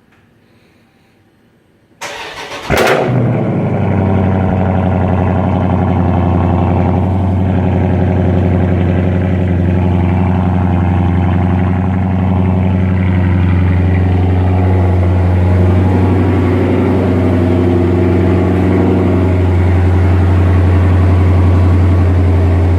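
Dodge Charger Scat Pack's 6.4-litre 392 HEMI V8 with the mufflers deleted, cold-started: the starter cranks about two seconds in, the engine catches with a loud burst, then settles into a steady, loud cold-start idle that grows a little louder near the end.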